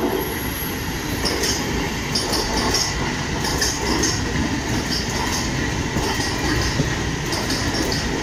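Passenger train running along the track, heard from aboard a coach: a steady rumble of wheels on rail with short bursts of high wheel squeal in the first half.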